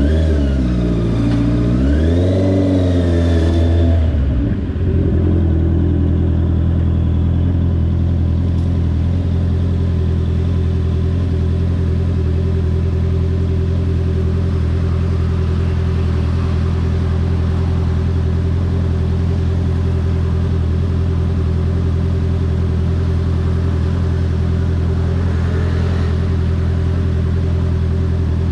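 2022 Honda CBR650R inline-four engine. Its revs drop, rise briefly about two seconds in and fall again, then it settles into a steady low idle-like note.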